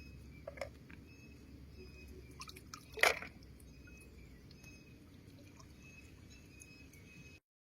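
Faint wet clicking and squelching of water, with one louder, brief crackling splash about three seconds in. The sound cuts out abruptly just before the end.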